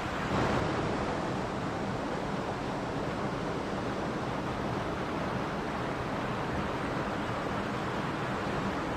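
Mountain stream flowing, a steady rush of water with a slight swell just after the start.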